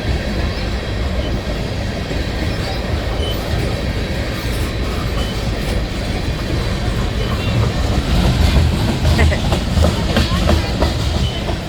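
Freight train of tank cars rolling past: a steady rumble with the wheels clicking over rail joints, more plainly in the second half.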